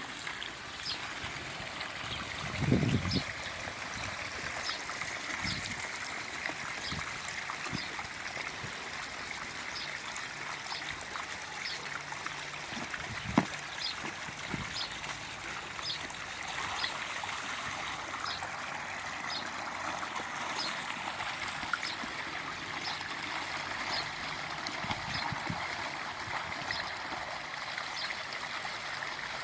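Water flowing steadily, with a faint high chirp repeating about once a second. A low thump comes about three seconds in and a sharp knock near the middle.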